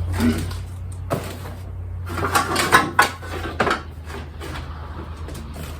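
Rummaging through stored items: things being moved and knocked together, with a single knock about a second in and a burst of clattering knocks and rattles between about two and four seconds in, over a steady low hum.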